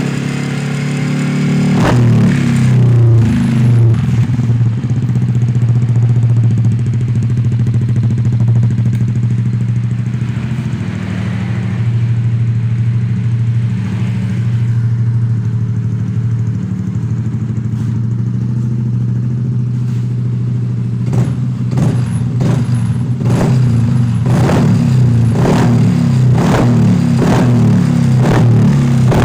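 Motorcycle fitted with an aftermarket WRC exhaust running with a deep, steady exhaust note, with a run of short, sharp blips in the last third.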